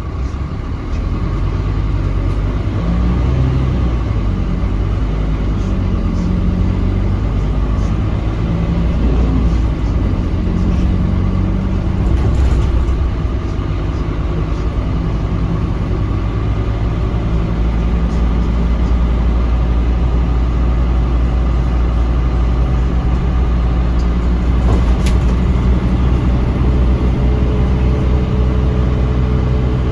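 Scania K310UB city bus's diesel engine heard from inside the bus, its pitch rising and falling over the first dozen seconds, then running at a steady speed.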